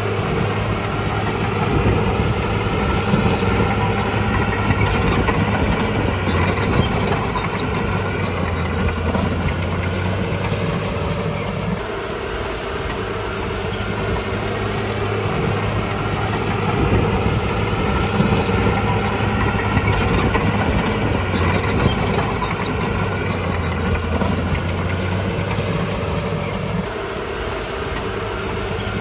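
Komatsu D51PX crawler bulldozer's diesel engine working under load, its drone swelling and easing twice, dropping off suddenly about twelve seconds in and again near the end. Metallic track clanks and squeals come in short clusters during each push.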